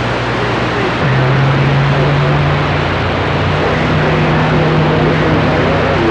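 CB radio receiver on the crowded 11-metre band, giving loud static with faint, garbled distant voices buried in it. A low steady hum from overlapping carriers starts about a second in and steps up in pitch a couple of seconds later. The band is jammed with many stations at once.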